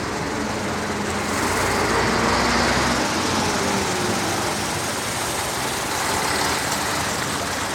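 Heavy rain and wind during a storm: a loud, steady rushing noise.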